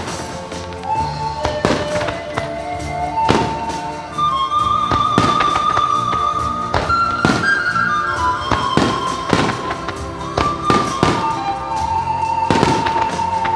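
Aerial firework shells bursting, a sharp bang every second or so at irregular spacing, over music with a slow sustained melody.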